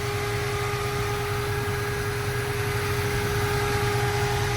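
Tuned 350 small-block Chevrolet V8 with aluminium heads idling smoothly and evenly, a purring low rumble with a constant thin whine over it.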